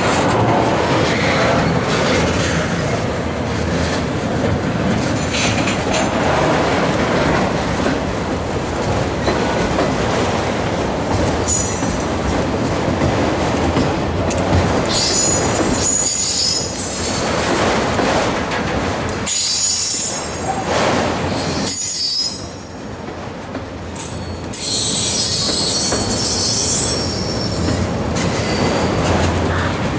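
Freight train cars rolling past with a steady rumble and clatter of wheels on rail, broken by several bursts of high-pitched steel wheel squeal, about twelve seconds in, again from about fifteen to nineteen seconds, and near the end.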